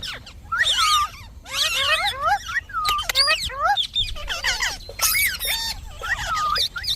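Indian ringneck parakeet chattering and squawking in a run of quick bursts, its high notes bending rapidly up and down.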